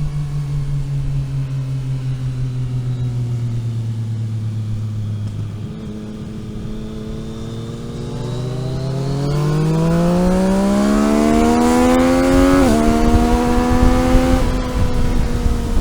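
Road vehicle's engine under way, holding a steady note, then easing off about six seconds in. It then accelerates with a rising pitch, drops sharply in an upshift about thirteen seconds in, pulls again briefly and eases off near the end.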